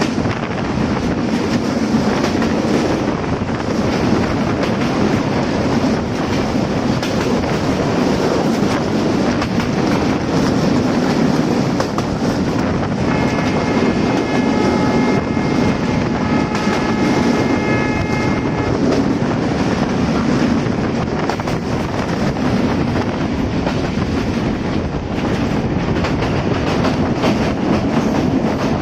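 Diesel-hauled local passenger train running, heard from aboard: a steady, loud rumble of wheels on rails. About halfway through, the locomotive's horn sounds a held chord of several tones for about five seconds.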